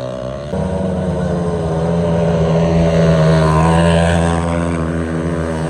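Dirt bike engine revving in neutral: it comes in abruptly, climbs a little and is held at high revs, then eases slightly.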